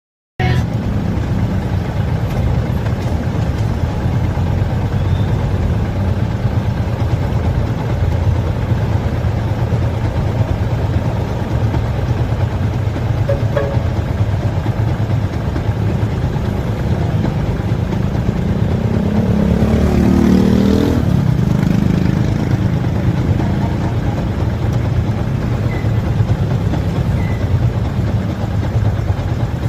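Motorcycle engine running steadily on the move. About twenty seconds in the engine swells, rising in pitch, then settles back.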